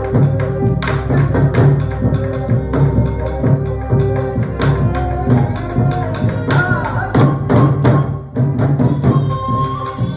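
Korean traditional ensemble music: soribuk drums and percussion strike a dense rhythm under sustained melodic lines. Near the end a high held wind tone comes in.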